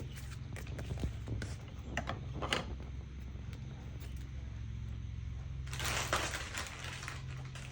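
Paper being handled and cut with scissors: a few small clicks, then a short papery rustle about six seconds in, over a steady low hum.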